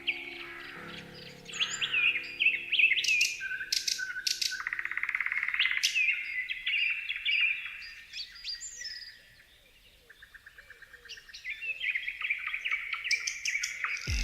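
Songbirds singing and chirping: varied whistled notes, quick upward glides and two fast trills, over soft sustained background music that fades out after the first few seconds. The birdsong drops away briefly past the middle, then picks up again.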